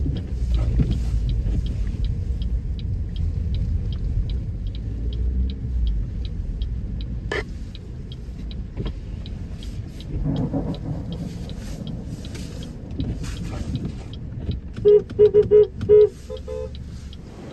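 Car in motion, a steady low rumble of engine and road with faint regular ticking about three times a second. Near the end, a quick run of about five short horn toots.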